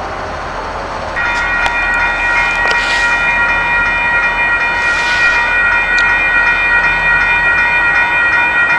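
Railyard train sound: a steady, high-pitched sound of several held tones starts abruptly about a second in and holds without a break over the background rumble.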